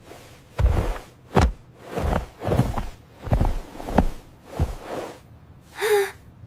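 Seven heavy footsteps at a walking pace, each a thud with a rough, scuffing top, then a short high-pitched squeak near the end.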